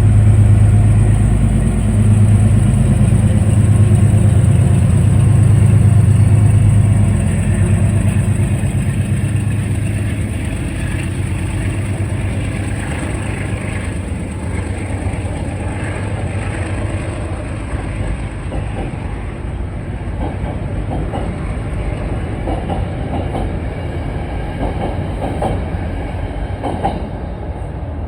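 Metro-North train hauled by a GE P32AC-DM diesel locomotive moving through the station: the engine's low drone is strongest for about the first seven seconds, with some snap, crackle and pop, then eases under the rumble and clickety-clack of the coaches' wheels over the rail joints.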